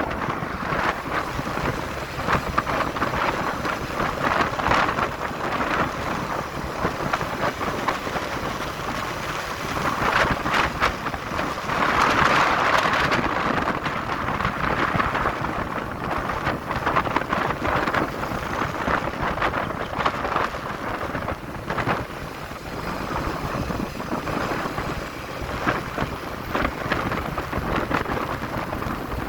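Wind buffeting the microphone of a moving motorcycle, a steady rushing noise that swells and eases, with the motorcycle's running and road noise underneath.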